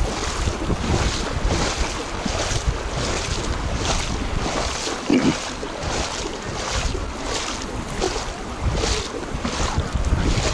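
Footsteps wading through shallow floodwater, splashing about twice a second, with wind rumbling on the microphone.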